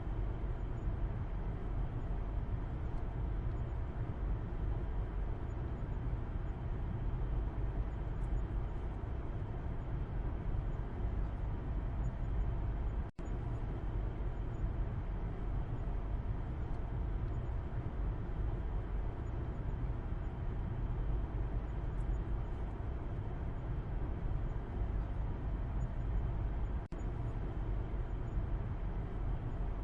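Steady road noise and low rumble inside a moving car, heard from the back seat, with a momentary dropout about 13 seconds in and another near the end.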